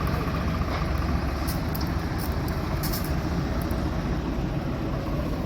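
Tractor engine running steadily, driving a spray pump, with a few faint ticks in the middle.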